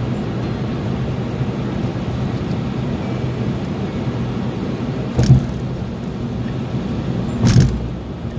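A car driving: steady road and engine noise, with two short thumps, one a little past halfway and another near the end.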